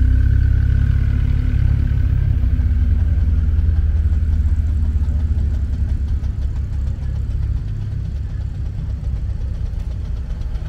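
Morris Minor Traveller's small four-cylinder engine running at low speed as it drives slowly past close by. Its low hum is loudest at first and fades after about two seconds, then a following classic car's engine goes on quietly.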